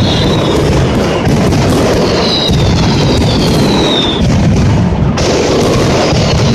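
Dense, unbroken barrage of firecracker bangs and booms from a Valencian mascletà, with whistling fireworks that slide down in pitch a few times.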